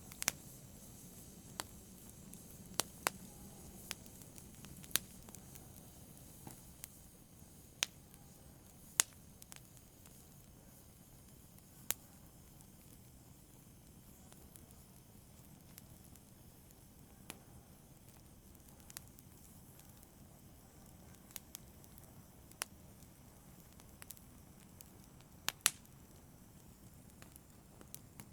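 Fire crackling gently: sharp, irregularly spaced pops and snaps over a soft, steady hiss.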